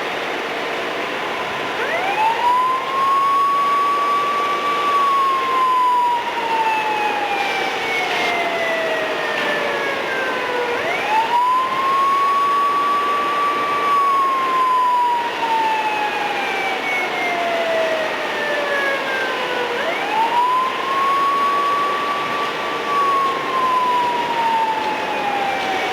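Mechanical siren winding up quickly to a high wail, holding it a few seconds, then sliding slowly down in pitch as it coasts down; it winds up again about every nine seconds, three times in all.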